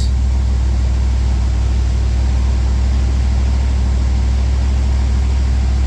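355 cubic-inch V8, fed by a freshly rebuilt Holley 750 double-pumper carburettor, running steadily and smoothly from cold, heard from inside the car.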